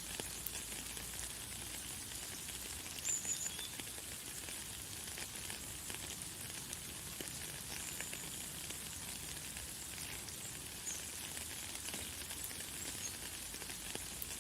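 Light, fine rain pattering steadily, with a few brief high bird chirps, the loudest about three seconds in.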